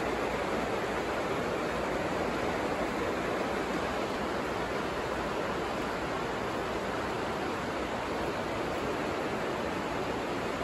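Steady rain falling, an even, unbroken rush of noise with no separate drops standing out.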